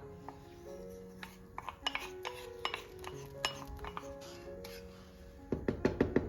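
Dishes and cutlery clinking and tapping over soft background music, with a quick run of louder taps near the end.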